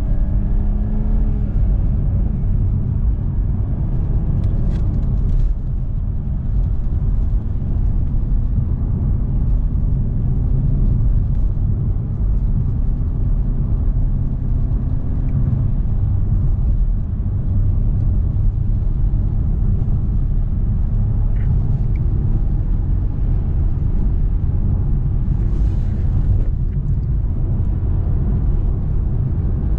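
Car cruising at steady speed, heard from inside the cabin: a constant low engine and tyre rumble on the road.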